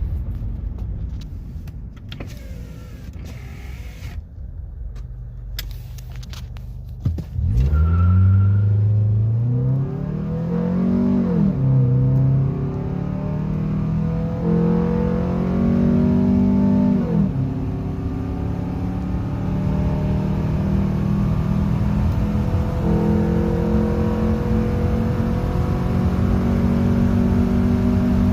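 2006 Nissan Altima's 2.5-litre four-cylinder engine, fitted with a cold air intake, aftermarket header and performance muffler, idles for about seven seconds, then goes to full throttle. Its revs climb, drop at gear changes about four and ten seconds after the launch, and then climb slowly and steadily as the car builds toward top speed.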